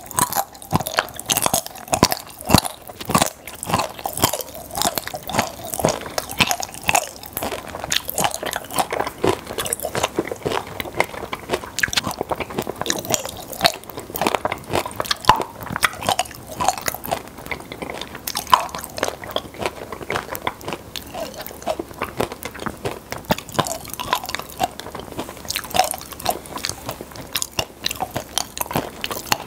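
Close-miked chewing and crunching of popping-candy chocolate in the mouth, a dense run of quick, irregular crackles and crunches that goes on without a break.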